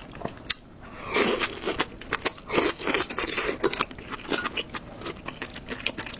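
Eating sounds at a meal table: utensils clicking and scraping against dishes, with crunching and chewing of food.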